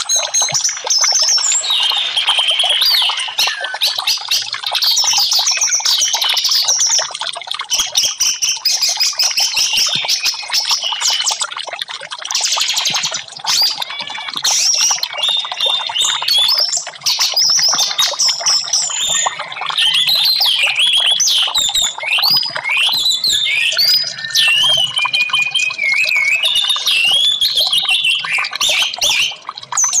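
Orange-headed thrushes singing, several songs overlapping in a continuous stream of varied, high whistled phrases mixed with short sharp notes.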